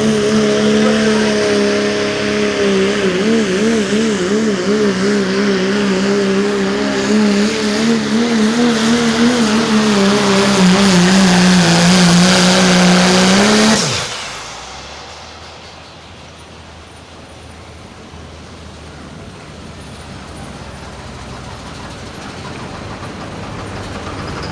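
Diesel pulling truck's engine running hard at full throttle under load, its pitch wavering and sagging slightly; a little past halfway it cuts off abruptly, leaving a much quieter background.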